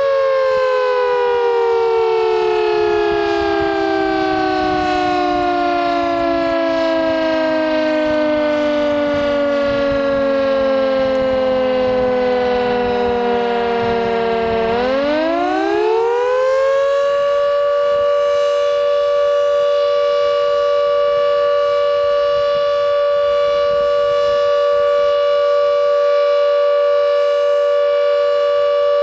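Carter 1H siren sounding the flood warning: its steady two-note tone sinks slowly in pitch for about fifteen seconds, then climbs quickly back within two seconds and holds steady again. The slow sink and return is one of the four interruptions in the otherwise continuous flood-warning tone.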